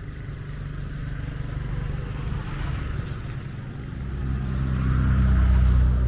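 A motor vehicle's engine running steadily, growing louder about four seconds in.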